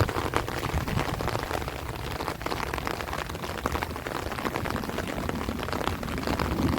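Heavy rain falling steadily on rice leaves and trees, a dense patter of drops, over a low rumble of strong wind.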